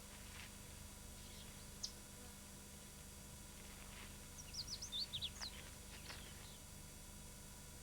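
Birds chirping: one short high chirp about two seconds in, then a quick run of high chirps around the middle, over a faint steady hum.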